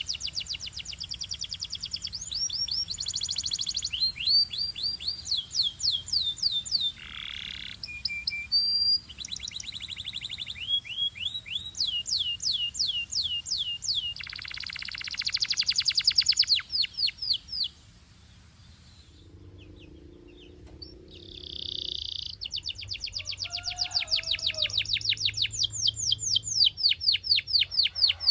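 Belgian canary singing: fast trills of rapidly repeated notes, one run after another at varying speeds, with a break of a few seconds about two-thirds through before it starts again.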